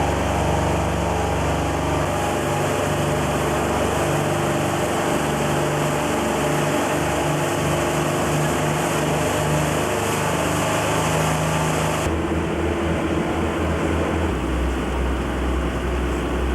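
A tour boat's engine running steadily under way, over a constant rush of noise. About twelve seconds in the sound changes, the engine note shifting lower.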